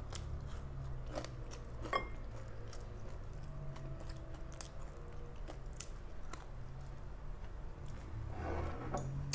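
Close-miked mukbang chewing: a person eating a mouthful by hand, with many small wet mouth clicks and smacks, over a steady low hum.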